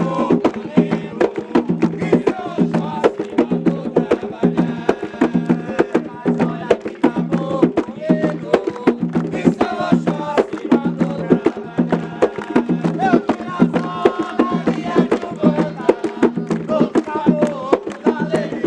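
Umbanda ponto music: hand drums (atabaques) beaten in a fast, steady rhythm of several strikes a second, with voices singing over them.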